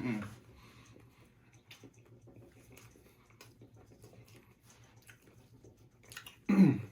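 Faint close-up eating sounds: chewing with small scattered clicks from mouth and food. Near the end a short voiced sound from the eater, falling in pitch.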